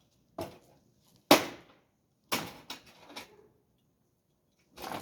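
Wooden bed frame being taken apart by hand: a series of sharp knocks and bangs of wood on wood. There are about six, the loudest about a second in.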